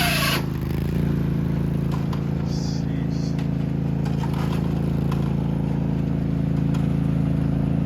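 Craftsman riding lawn mower's small engine running at a steady idle, with a few faint ticks and clatters over it.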